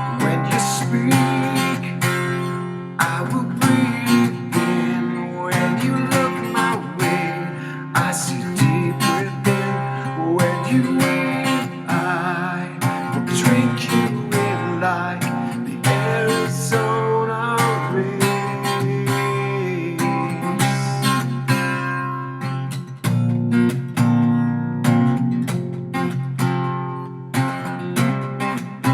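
Acoustic guitar strummed steadily in chords, an instrumental break of an acoustic rock song with no singing.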